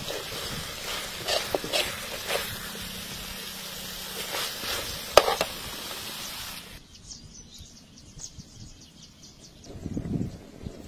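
Chicken drumsticks sizzling as they are stir-fried in a wok, with the spatula knocking against the pan a few times. About seven seconds in, the frying cuts off abruptly, leaving a quieter outdoor background with faint high ticking.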